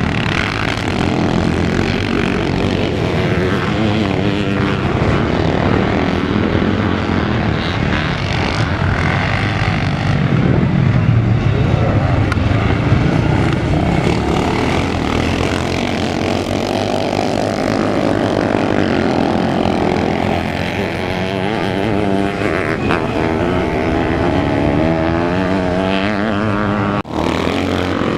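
Motocross motorcycle engines racing on the track, revving up and down as the bikes accelerate, shift and pass, loudest about halfway through. The sound cuts out for an instant near the end.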